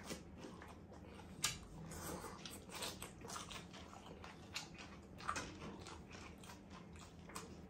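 Close-miked chewing and biting of crisp lettuce leaves: irregular wet crunches and mouth clicks, with sharper ones about one and a half and five seconds in.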